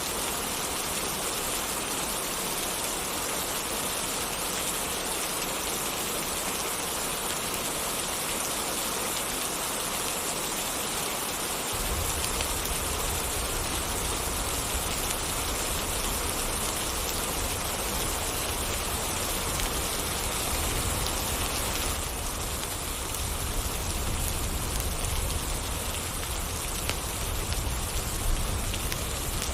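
Steady rain falling, an even hiss of drops on surfaces; about twelve seconds in a deep low rumble joins underneath.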